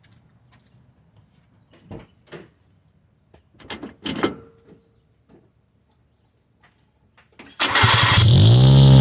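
A few faint clicks and knocks, then about seven and a half seconds in the supercharged 1995 Subaru Sambar's engine starts and runs loud, its pitch rising and then levelling off. It runs through a Yoshimura universal motorcycle exhaust with the dB killer removed.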